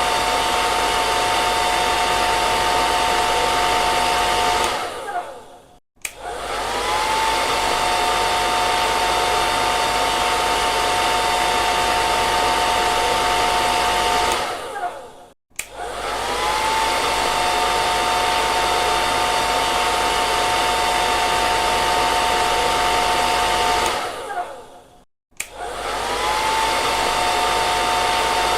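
Handheld hair dryer blowing steadily, a rush of air with a steady motor whine. Three times, about every ten seconds, it is switched off: the whine falls as the motor winds down, there is a second of near silence, then it starts again with a rising whine.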